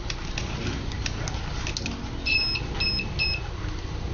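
Multimeter continuity beeper sounding three short high-pitched beeps as the probes touch across the TV power board's fuse, after a few light clicks of the probes. The beep means the fuse conducts: it is intact.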